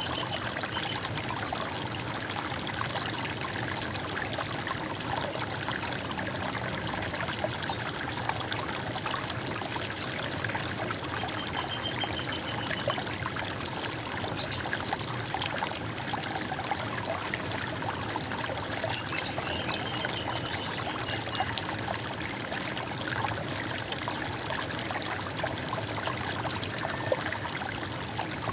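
Running water trickling and gurgling steadily, with a few short bird trills here and there, two of them around the middle.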